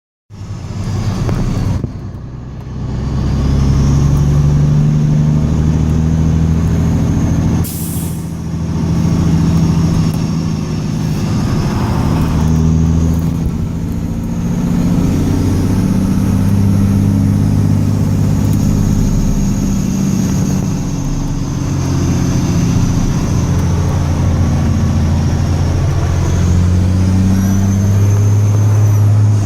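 Heavy truck engine running loudly and steadily, its pitch shifting a little as it works, with a short air-brake hiss about eight seconds in.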